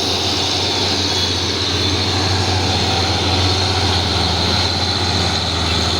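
Heavy diesel truck engine working hard under load: a steady, loud drone with road noise and no change in pitch.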